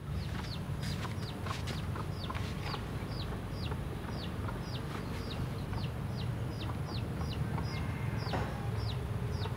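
A bird calling over and over with short, high, falling chirps, a bit over two a second, over a steady low hum.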